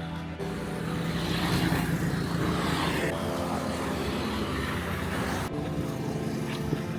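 An engine running with a steady hum, joined by a louder rushing noise that builds about a second in and cuts off suddenly about five and a half seconds in.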